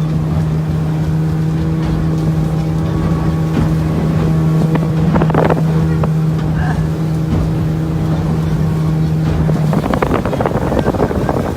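A boat's engine running with a steady drone. About ten seconds in the drone drops away and a rough rush of wind and water noise takes over.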